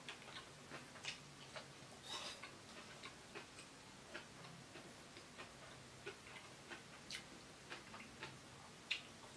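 Faint, irregular clicks and light scrapes of eating utensils against a dish while noodles are being eaten, about two or three small clinks a second.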